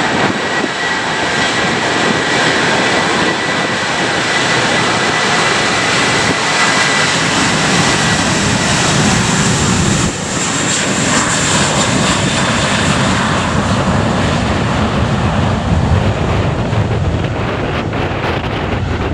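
Jet airliner's engines running loud and steady, with a high whine in the first several seconds that then fades out.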